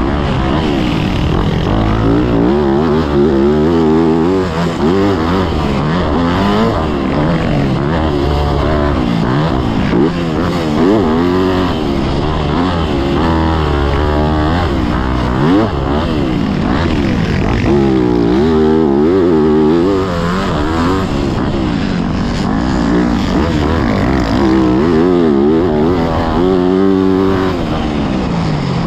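Yamaha YZ motocross bike's engine being ridden hard, revving up and dropping back again and again as the throttle is opened and closed, the pitch rising and falling every second or two.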